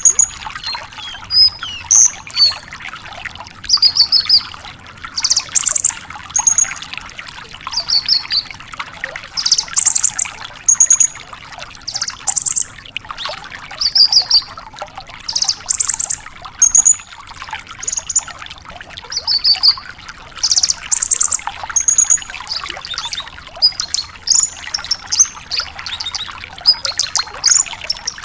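Branjangan lark singing: short, high, rapid trilled phrases repeated every second or so, over a steady hiss.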